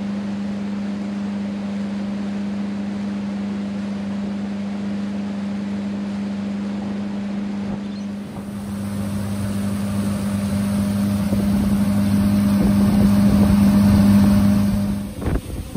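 A boat's outboard motor running at a steady pitch, growing louder from about halfway through, then throttled back and falling away suddenly near the end.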